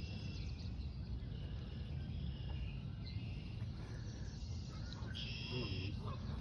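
Outdoor waterside ambience: a steady low rumble with faint, scattered bird chirps, and a louder bird call about five seconds in.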